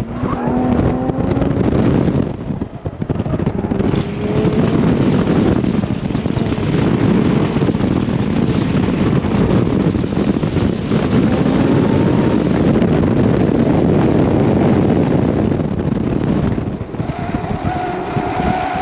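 Toyota Supra engine pulling hard through an autocross run, its pitch climbing under acceleration with brief lifts off the throttle about two seconds in and again near the end. The engine is heard under heavy wind rush and buffeting on the outside-mounted microphone.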